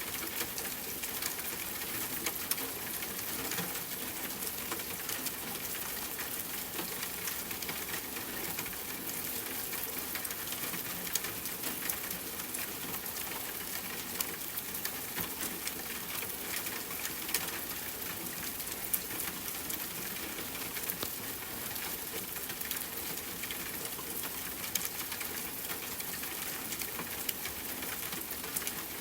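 Steady rain falling, a dense patter of drops on a surface with fine scattered ticks.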